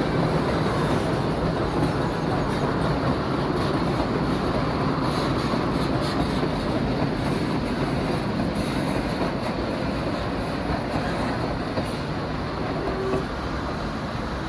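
Puffing Billy narrow-gauge passenger train, hauled by NA class steam locomotive 12A, rolling by with a steady rumble of wheels on rails. It eases off slightly near the end.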